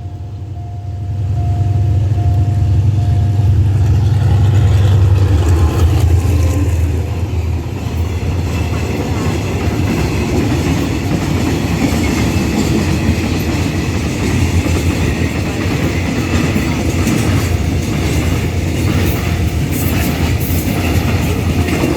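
A train hauled by a GE diesel-electric locomotive passing close by. A deep engine rumble is strongest for the first six seconds or so, then the cars roll past with a steady rushing noise and wheels clacking over the rail joints.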